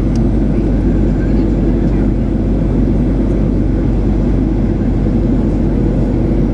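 Steady low roar of a Southwest Boeing 737's jet engines and rushing air as the airliner climbs out after takeoff.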